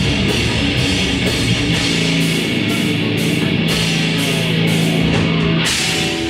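Live grindcore band playing loudly: heavily distorted electric guitars and bass over drums, with a cymbal struck about twice a second.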